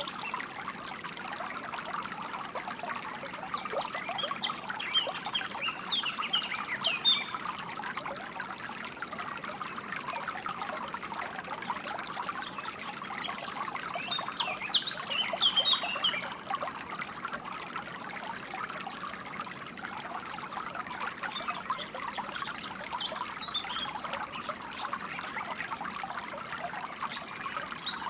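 Water trickling and babbling steadily, with small birds chirping over it in scattered flurries of short, high calls.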